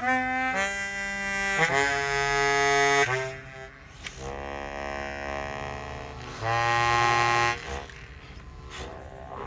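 Suzuki Sirius S48B bass chromatic harmonica played through a Boss MD500 effects pedal with amp reverb: three held notes stepping down in pitch, then after a short gap a softer long note and a louder shorter one, fading out near the end.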